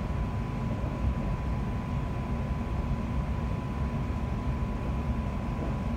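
Inside a London Overground class 710 electric train running at speed: a steady low rumble of the wheels on the track, with a constant high tone.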